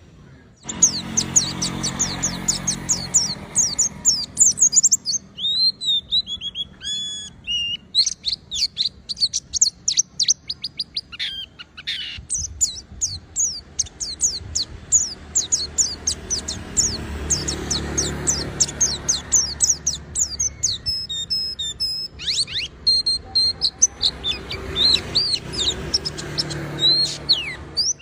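White-eye (pleci) singing in long runs of fast, high twittering chirps and short trills, starting abruptly just under a second in, over a low steady hum.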